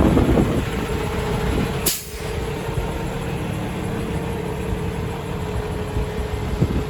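2015 Kenworth T680 heavy truck's diesel engine running at idle, a steady hum with a thin constant whine. A louder rush of noise at the start and a sharp click about two seconds in, after which the level dips briefly.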